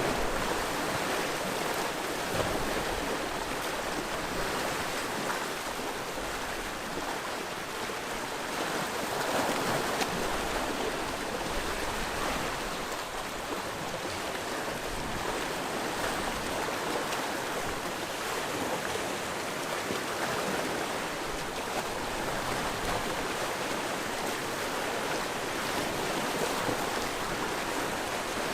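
Sea waves washing against the shore in a continuous rushing wash, swelling gently and easing back every few seconds.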